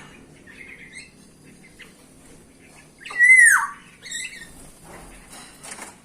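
Bulbul calling: one loud slurred note that bends downward, about three seconds in, then a shorter call just after, with a few faint chirps before.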